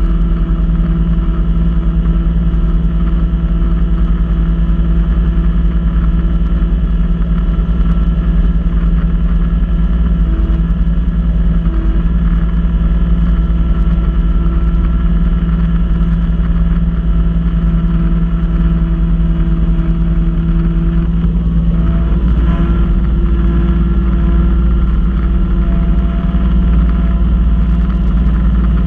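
Kubota B2650 tractor's three-cylinder diesel engine running steadily under load, driving a front-mounted snow blower. The engine note shifts about two-thirds of the way through.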